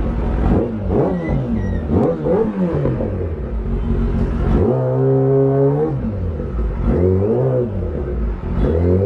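Kawasaki ZX-10R superbike's inline-four engine revved repeatedly, its pitch rising and falling in quick throttle blips, held steady at high revs for about a second near the middle.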